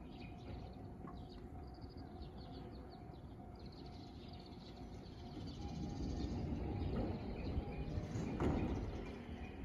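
Birds chirping over the faint steady hum of a JR East E531 series electric train standing at the platform. From about six seconds in, a louder rumble builds from the train, with a burst of noise near the end, as it gets ready to pull away.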